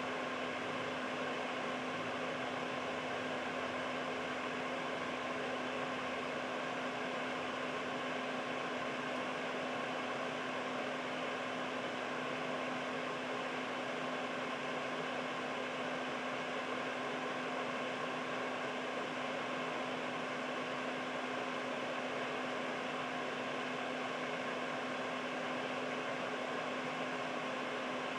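Air purifier running steadily: an even rush of air from its fan with a low steady hum underneath.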